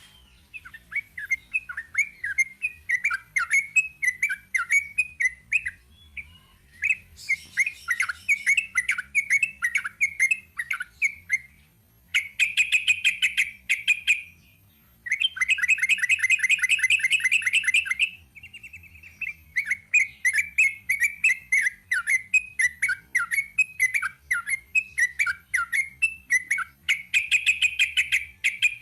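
Sooty-headed bulbul (trucuk) singing in long runs of chattering, bubbly phrases, with short pauses between runs. About halfway through come two stretches of very fast, rapid-fire repeated notes.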